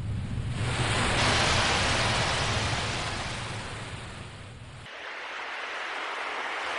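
Sea waves surging in and washing back: one large swell peaking about a second in and fading away, then a second, softer swell.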